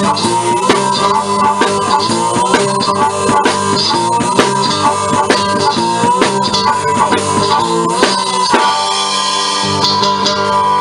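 Live blues band playing an instrumental passage, with guitar and drums keeping a steady beat; the playing changes texture about eight and a half seconds in.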